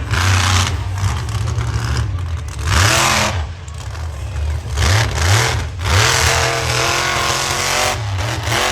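Monster truck's supercharged V8 engine revving hard in repeated surges, its pitch climbing and dropping several times as the throttle is opened and closed.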